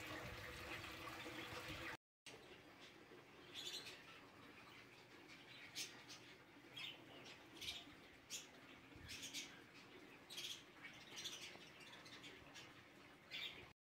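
Faint, scattered short bird chirps, a dozen or so spread out with gaps between them, over a very quiet background. A steady hiss fills the first two seconds.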